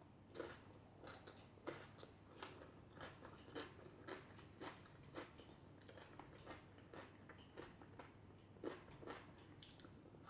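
Close-up chewing and crunching of fried food in a mouth, a string of short crisp bites and chews roughly twice a second, sparser for a few seconds in the middle.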